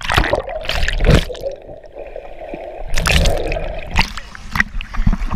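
Water splashing and gurgling close to the microphone, with heavy splashes near the start, about a second in and again about three seconds in, and a duller, muffled stretch between them.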